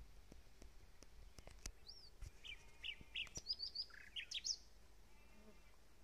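A small songbird singing a quick run of varied chirps and short whistles, from about two seconds in until past four and a half seconds, over faint outdoor background. A few faint clicks come before the song.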